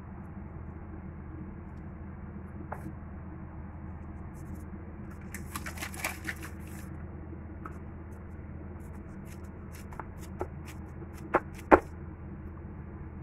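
Kitchen handling noises over a steady low hum: a brief crinkly rustle about halfway through, then a few sharp clicks or taps near the end, the last one the loudest.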